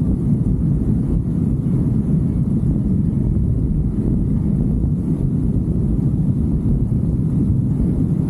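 Steady low rumble of a motorcycle ride: wind on the microphone over the running engine, with no changes in pace.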